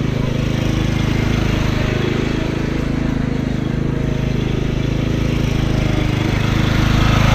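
Riding lawn mower engine running steadily while driving, getting a little louder near the end.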